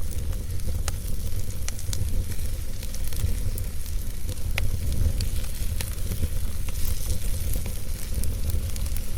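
Wood fire burning in a fireplace: a steady low rumble with a hissing crackle and scattered sharp pops every second or so.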